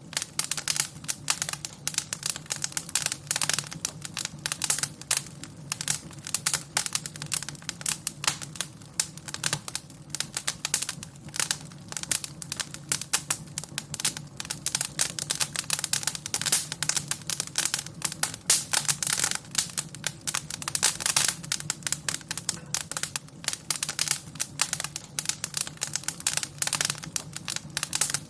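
Wood fire in a fireplace crackling: dense, irregular pops and snaps over a low steady rumble of the flames.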